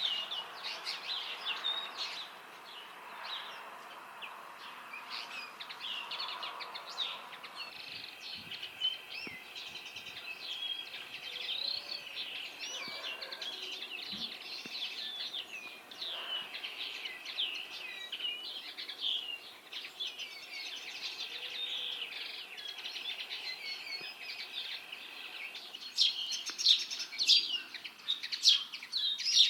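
Common linnet singing: a long run of fast, varied twittering notes, louder near the end.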